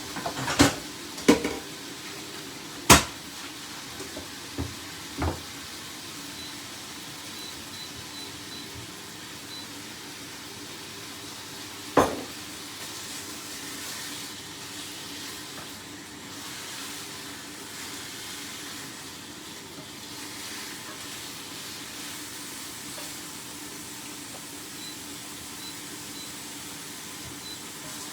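Chicken frying in a pan with a steady sizzle, broken by several sharp knocks of kitchenware in the first few seconds and one more about twelve seconds in.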